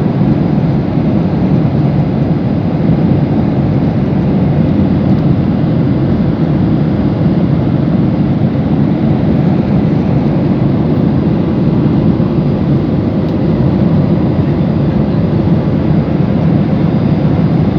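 Steady, even engine and airflow noise inside a passenger jet's cabin in flight.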